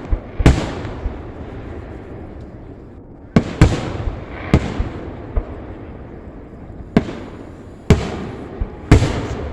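Aerial fireworks shells bursting: a string of sharp bangs, some in quick pairs, each trailing off in a rumble and crackle.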